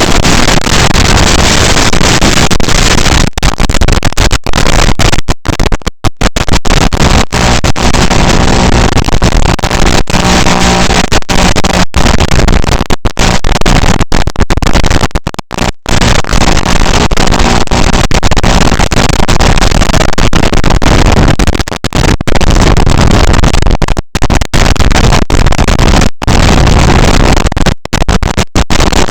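Loud, steady noisy drone of a micro FPV quadcopter's flight recording, with a faint motor hum under a hiss and many sudden brief dropouts.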